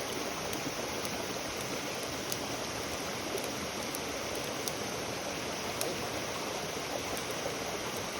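Campfire burning: a steady hiss with sparse faint crackles and pops.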